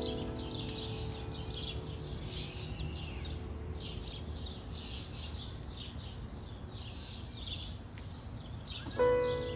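Many small birds chirping and twittering, short calls overlapping throughout, over a low steady background rumble. Background music fades out in the first half second and comes back in loudly near the end.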